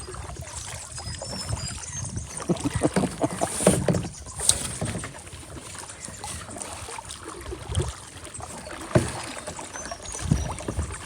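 Small paddled boat moving through floodwater: irregular splashing and water lapping, with occasional knocks against the hull.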